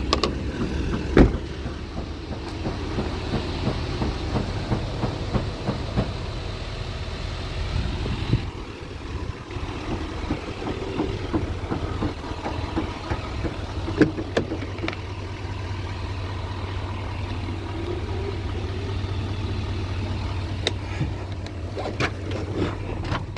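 2019 Chevrolet Silverado 2500HD's 6.6-litre Duramax turbo-diesel V8 idling steadily, with a few sharp clicks.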